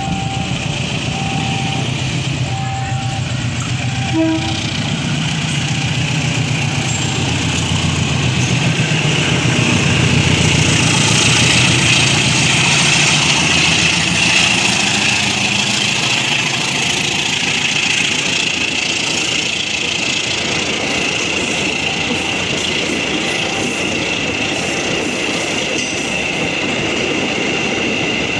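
Diesel-hauled passenger train approaching and passing close by: a low rumble from the locomotive builds to a peak about ten seconds in, then the coaches roll past with a steady high-pitched wheel ring and rail clatter.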